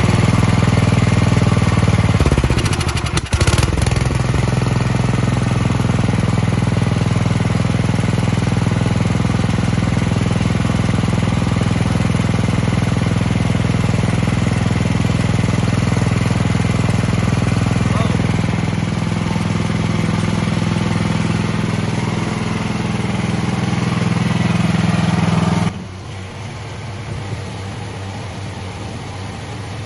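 Cub Cadet snow blower engine running steadily. It dips and stumbles briefly about three seconds in, then settles, and near the end drops to a noticeably quieter running sound.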